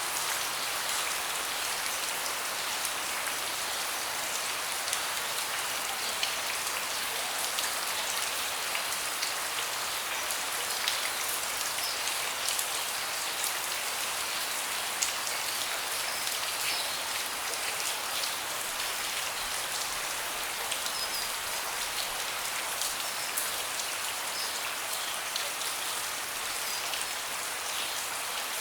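Steady rain falling on a deck and the surfaces around it, a dense hiss dotted with the small ticks of individual drops.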